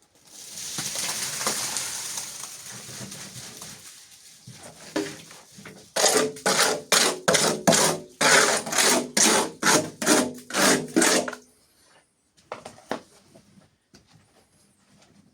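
Cement mortar being emptied out with a long rushing slide, then a run of about fifteen rhythmic scraping strokes, about three a second, as the mortar is scraped and worked across the floor.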